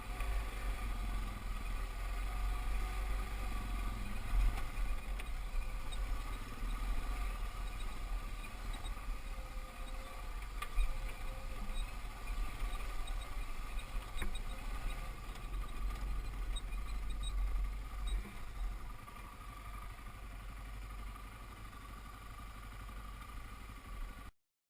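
Dirt bike engine running during an off-road ride, with a heavy low rumble underneath. It gets quieter about eighteen seconds in and cuts off suddenly near the end.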